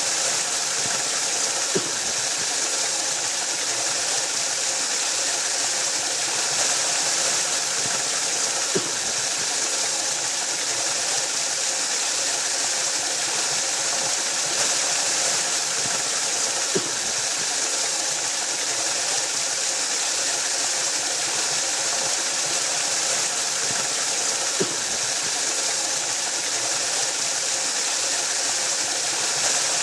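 Waterfall: water pouring steadily in a constant, even rush, with a faint click every seven or eight seconds.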